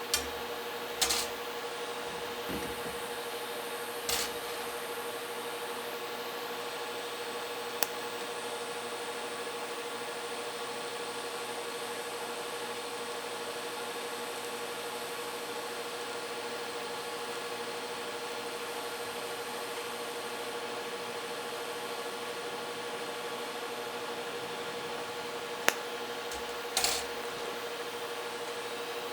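TIG welding arc on thin-walled mild steel tubing: a steady buzzing hum with one strong tone, broken by a few short clicks.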